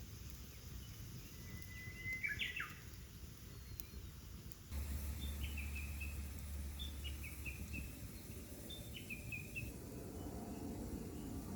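Wild birds calling: one short call about two seconds in, then three runs of quick, high, falling chirps, over faint outdoor background noise.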